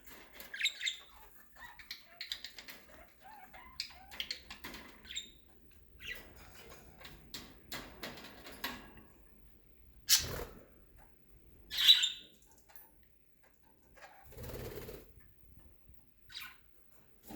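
Pet budgerigars chirping softly, with a few short, louder bursts of wing flapping as they fly about.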